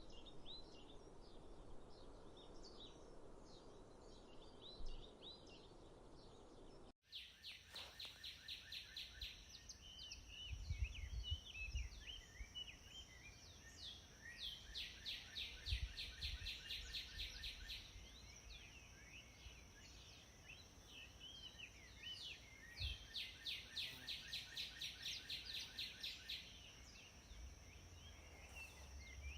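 Birds chirping over a steady low rush of noise. About seven seconds in it cuts abruptly to another recording of birds singing rapid repeated trills over a steady high-pitched whine, with a few low thumps.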